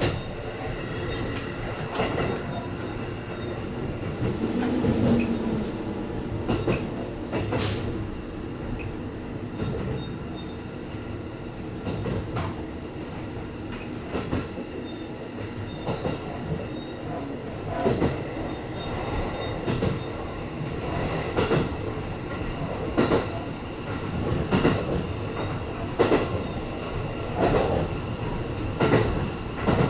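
E257 series electric train running along the track, with a steady rumble and hum carrying several steady whining tones. Sharp clicks of the wheels over rail joints come every second or two, more regularly in the second half.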